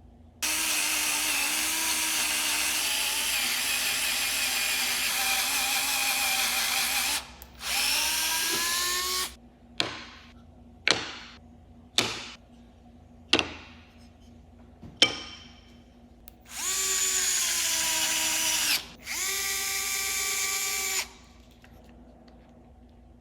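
A 3.6V cordless electric screwdriver's motor running in several bursts. First comes a long steady run of about seven seconds, then a shorter run that rises in pitch as it spins up. Five quick short blips of the trigger follow, about a second apart, then two more runs of about two seconds each.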